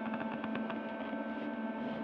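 A steady droning hum made of several held tones, with a few faint ticks about half a second in.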